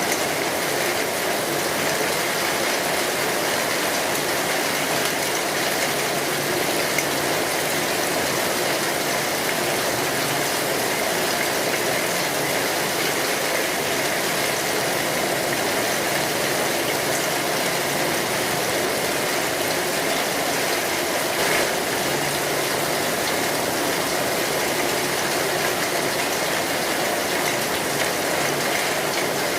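Steady rain falling on a metal roof, a dense, even patter, with two faint pops partway through.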